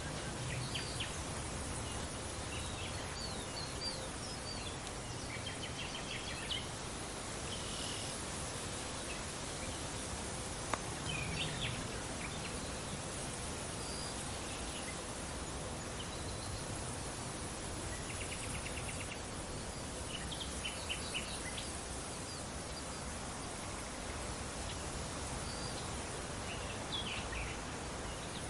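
Steady outdoor wind noise with scattered short bird chirps and calls, a brief rapid trill about two-thirds of the way through, and a single sharp click just before the middle.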